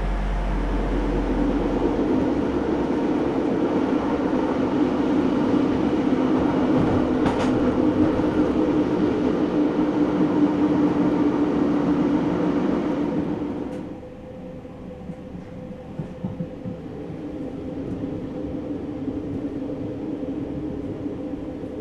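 A moving train heard from inside the carriage: a loud steady rumble with a droning hum, which drops to a quieter rolling with scattered light clicks of the wheels over the track about two-thirds of the way in.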